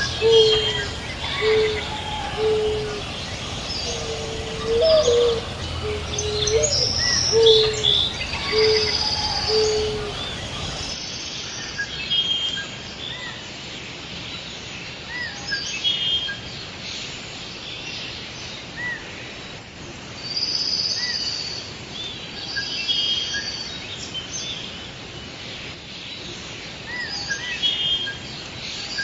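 Several small birds chirping and calling, short high notes scattered throughout. For the first eleven seconds a series of low, evenly repeated notes runs under them, stopping abruptly where the sound cuts to a quieter mix of chirps.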